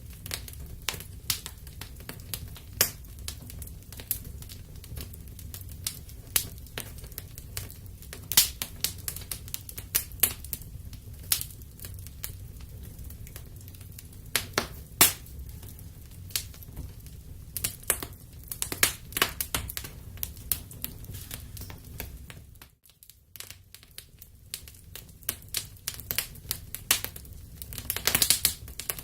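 Wood fire in a fireplace crackling: irregular sharp pops and snaps over a low steady rumble. The sound drops out briefly about two-thirds of the way through, and a dense flurry of crackles comes near the end.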